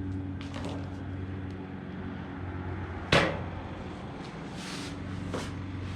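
Handling noises while working: one sharp knock about three seconds in and a few lighter clicks and a rustle, over a steady low hum.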